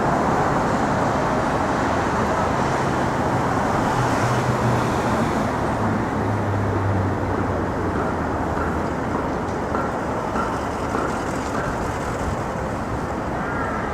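Busy city street traffic: a steady wash of cars passing, with a heavier vehicle's engine drone standing out a few seconds in and dropping in pitch before fading.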